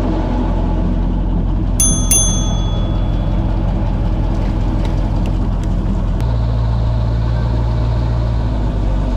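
Airboat engine running steadily, its low hum shifting to a slightly different pitch about six seconds in. About two seconds in, two sharp metallic clinks ring briefly.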